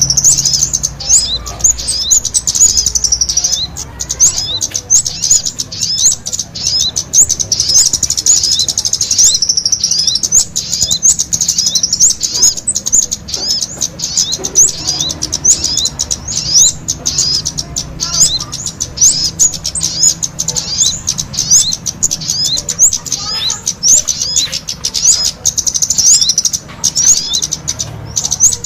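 Kemade and sogon songbirds singing together in full voice: a dense, unbroken stream of quick, high-pitched chirps and twittering notes.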